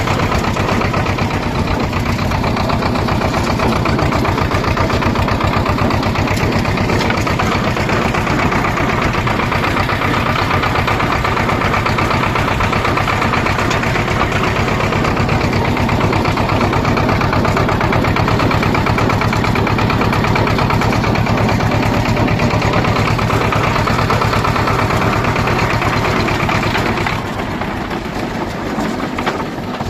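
Swaraj 724 tractor's two-cylinder diesel engine running steadily. It eases off to a quieter run about three seconds before the end.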